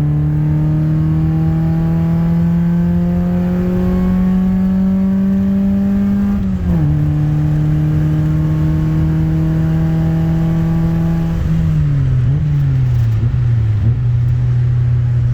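Honda F23A 2.3-litre SOHC VTEC four-cylinder pulling hard in third gear, its note climbing steadily. About six and a half seconds in the pitch drops abruptly as it shifts up a gear, then it holds steady before falling away as the throttle is lifted near the end.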